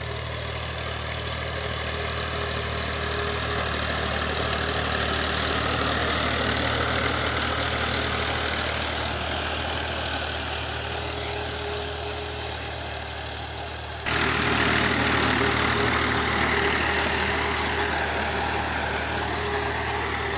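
Tractor diesel engine running steadily while pulling a disc harrow through the field. The sound grows louder over the first few seconds, then jumps suddenly louder about two-thirds of the way through.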